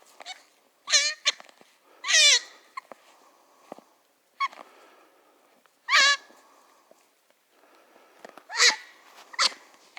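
A caught live hare crying: about five short, high-pitched wavering cries, each falling in pitch, a few seconds apart.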